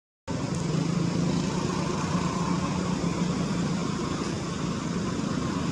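A motor running steadily, with a constant low hum under a wash of noise, after a split-second dropout right at the start.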